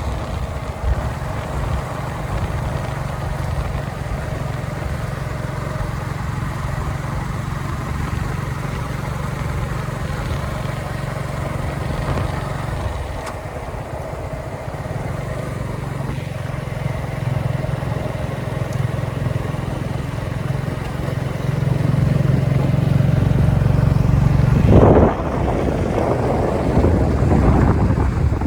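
A motor vehicle's engine running steadily, with a low hum under a noisy wash. It grows louder about three quarters of the way through, with a brief surge near the end.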